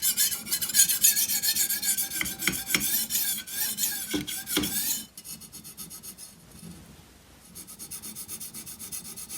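Steel edge of a chef's knife scraping across a dry Spyderco medium ceramic bench stone in quick back-and-forth push-and-pull strokes. The scraping is loud for about five seconds, then goes on lighter and quieter.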